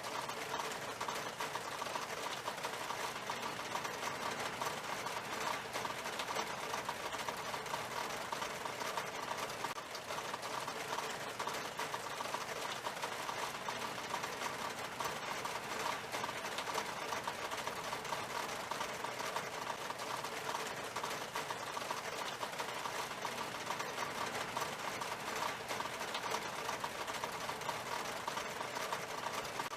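Steady rain on window glass: a dense, even patter of countless drops striking the pane.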